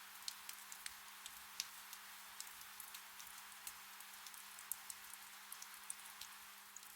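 Gentle rain falling: a soft steady hiss with many individual drops ticking irregularly.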